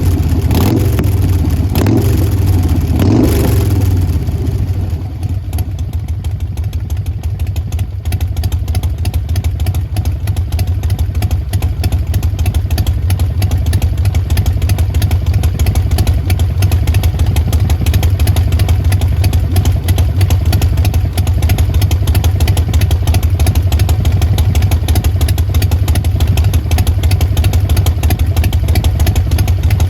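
Harley-Davidson Sportster Forty-Eight's 1200 cc air-cooled V-twin running through Vance & Hines Short Shots exhaust: a few quick throttle blips in the first four seconds, then it settles to a steady idle.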